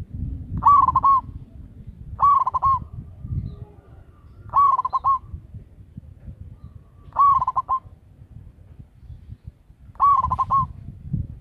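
Zebra dove (perkutut) cooing five times, irregularly a couple of seconds apart. Each call is a short warbling coo of about half a second. A low rumbling background noise sits underneath.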